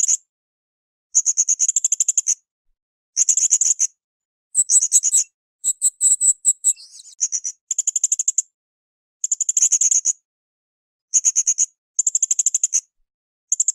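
Blue-crowned hanging parrot (srindit) calling with a high, rapid, trilled chirp. The calls come in short bursts about every second, with a more broken, jumbled run of notes in the middle.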